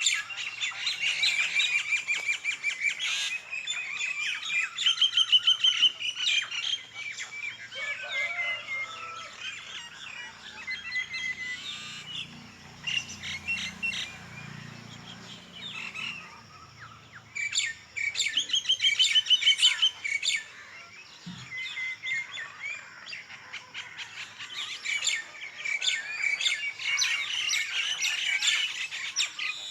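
Many small birds chirping and calling at once, high and overlapping. Louder spells of fast repeated chirps come and go, with a quieter stretch in the middle.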